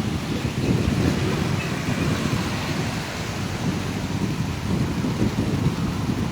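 Wind buffeting the microphone outdoors: a steady, gusty low rumble without any tone.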